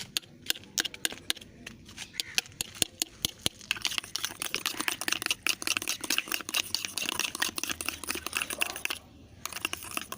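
Sticky homemade toothpaste slime being mixed and worked: sharp scattered clicks for the first few seconds, then a dense, fast sticky crackling for about five seconds that stops near the end.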